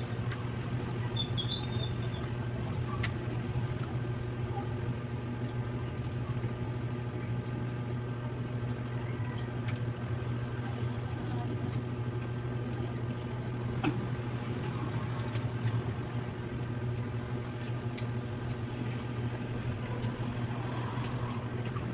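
Steady low mechanical hum, like a small motor running continuously, with a few faint clicks scattered through it.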